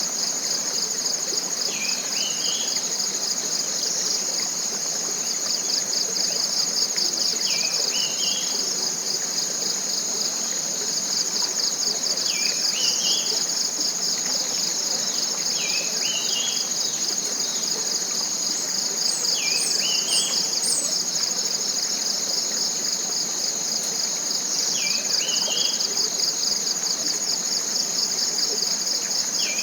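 Steady, finely pulsing high-pitched chorus of tropical forest insects, with a bird repeating a short call, a quick drop then a stepped rise, about every four to five seconds. A few faint, very high chirps come in briefly about two-thirds of the way through.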